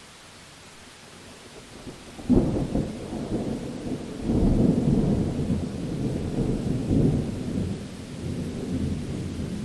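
Thunderstorm: steady rain hiss, then a sudden thunderclap a little over two seconds in, followed by long rolling thunder that swells and fades unevenly.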